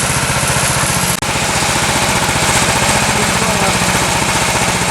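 Small gasoline engine of a Woodland Mills HM126 bandsaw mill running steadily, with an even, rapid firing rhythm and a momentary break about a second in.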